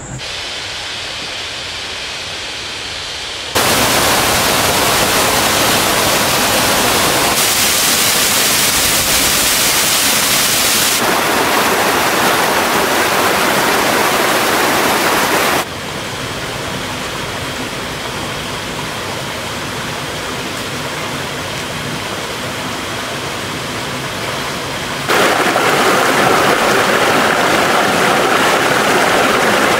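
Rushing water of a mountain stream and waterfall: a steady, fairly loud rush that jumps abruptly in level and tone several times.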